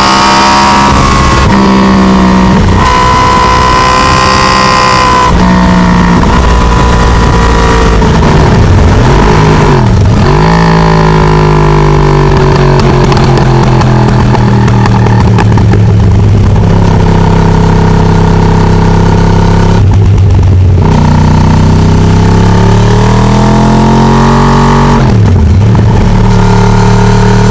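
Yamaha R1's crossplane 'big bang' inline-four engine, heard on board while riding. It runs loud and hard, its pitch climbing and falling with throttle and gear changes, with several brief breaks and sharp dips in pitch between pulls.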